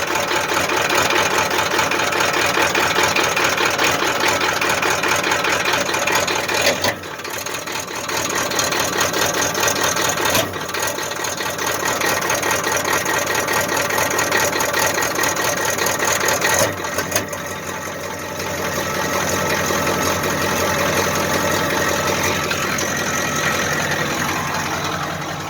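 A 1989 Ford F-450's 7.3-litre IDI V8 diesel runs just after a cold start below freezing, with the uneven, goofy idle it has when it is really cold. The level dips briefly about seven, ten and seventeen seconds in.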